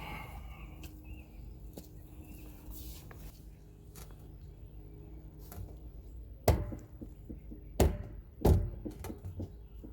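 PVC pipe and fittings being handled and forced together: scattered light clicks, then three hard knocks a second or so apart in the second half, over a low steady rumble.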